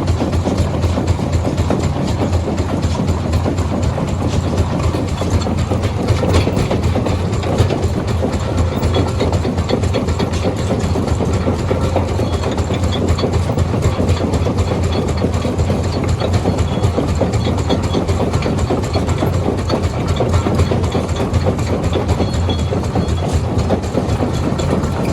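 Heavy stone-crushing machinery running steadily: a deep engine hum under a continuous dense clatter and rattle.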